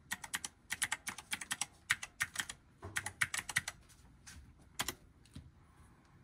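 Typing on a computer keyboard: a quick run of key clicks for about four seconds, then a few scattered keystrokes.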